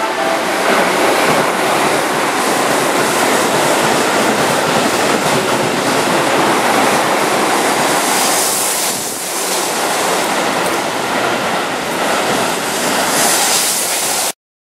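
Keihan 8000-series limited express train rolling past the platform at close range: a steady, loud rush of wheels on rails, with a brighter hiss about eight seconds in and again near the end. The sound cuts off suddenly just before the end.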